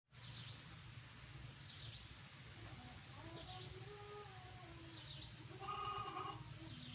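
Faint animal calls: a wavering pitched call from about the middle to near the end, and a short high chirp repeating about every two seconds, over a low steady hum.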